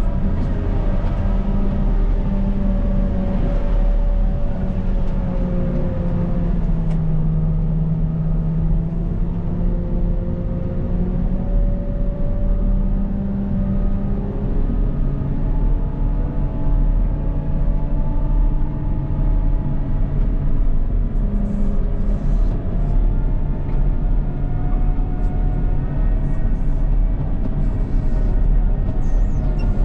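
CAT 926M wheel loader's diesel engine running under load, its pitch slowly rising and falling as the revs change.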